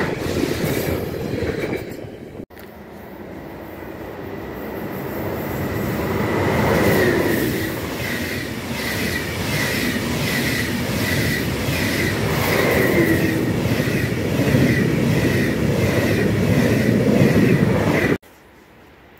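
A train passes close by, its wheels clicking in an even rhythm with a pulsing high-pitched squeal. It starts after a sudden cut about two seconds in and stops abruptly near the end.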